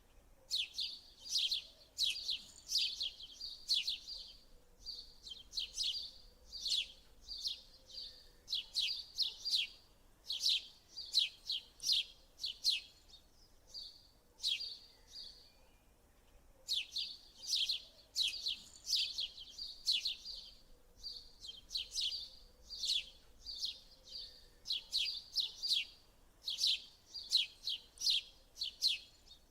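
Small birds chirping in quick runs of short, high notes, with brief pauses between the runs.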